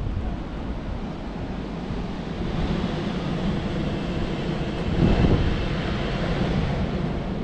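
Outdoor city ambience: a steady, noisy rumble with no clear tones, swelling to its loudest a little after five seconds in, then easing.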